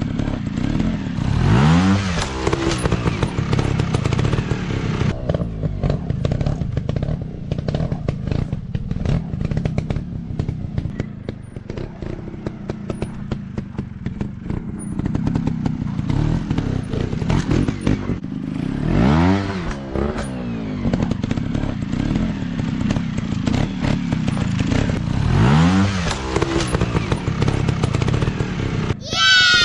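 Off-road dirt bike engine running under riding load, revving up and back down three times, with clattering and thumps from the bike over rough ground. A short sharp sweep comes right at the end.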